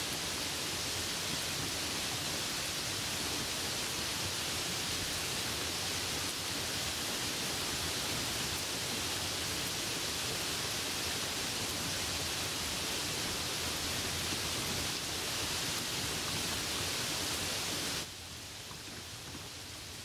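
Steady, even rain hiss. Near the end it drops suddenly to a quieter, softer rain.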